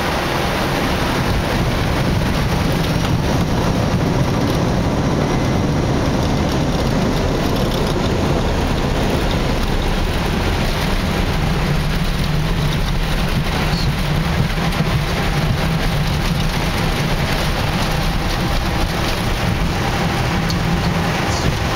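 Steady cockpit noise of an Airbus A319 during landing: a loud, even rush of airflow and engine noise over a low rumble.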